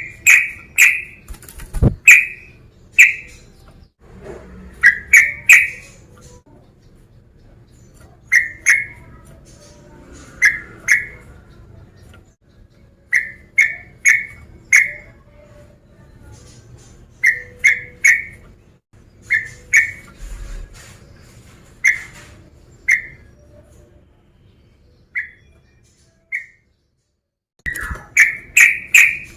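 Male sooty-headed bulbul (trucukan) calling: short, clipped whistled notes in quick groups of two to four, separated by pauses, ending in a faster run of notes after a longer gap.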